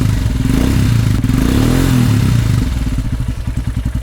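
Royal Enfield Himalayan's single-cylinder engine revved through a PoweRage slip-on exhaust with the dB killer removed: two rises and falls in revs, then settling to idle with even exhaust pulses a little under three seconds in.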